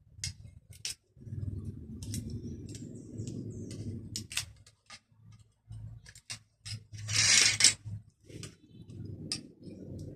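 Scattered small metal clicks and clinks of tools and parts being handled, over a steady low hum, with a short louder hiss about seven seconds in.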